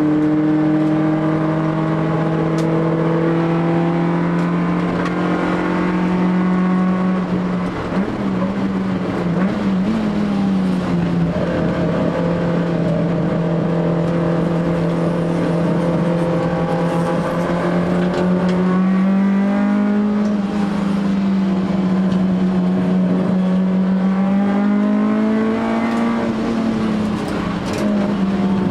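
Honda ZC 1.6-litre twin-cam four-cylinder on Solex 44 sidedraft carburettors with a titanium exhaust, running hard at high revs on a circuit. Its pitch climbs slowly, then holds and dips and rises again a few times.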